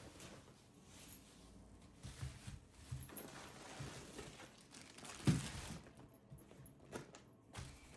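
Scattered light knocks, clicks and rustling from things being handled, with one louder thump about five seconds in.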